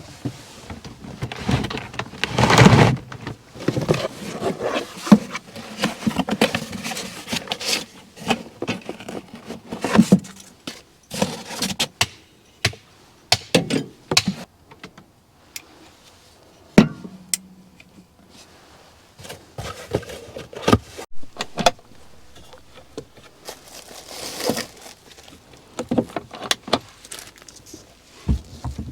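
Handling noises: irregular knocks, clicks and rustling as objects are moved about, with a louder clatter about two and a half seconds in.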